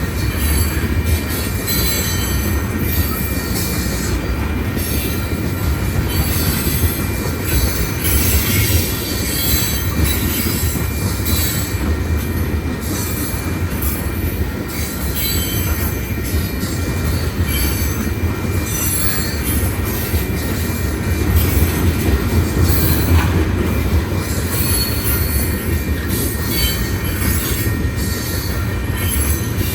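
Freight cars of a BNSF manifest train rolling steadily past, a continuous low rumble with high-pitched wheel squeal that comes and goes throughout.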